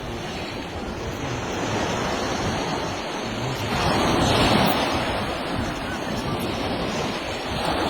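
Ocean surf: a steady rush of waves, swelling louder about four seconds in.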